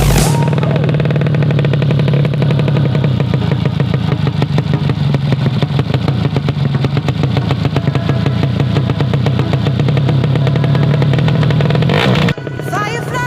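Yamaha Vega motorcycle's single-cylinder four-stroke engine, bored to 130cc, running at a steady idle with a fast, even pulse while its idle is being set. It cuts off suddenly about twelve seconds in and music takes over.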